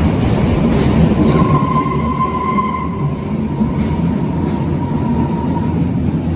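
Berlin U-Bahn large-profile train running, a steady rumble with a thin high whine that swells for about a second and a half, a second or so in.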